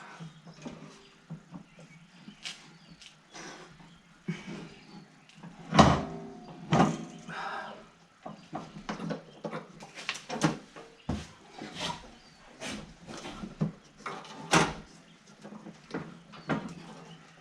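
Irregular knocks, clanks and scrapes of hand work on a rotary mower deck while belts are being fitted, with one louder clank about six seconds in, over a faint low steady hum.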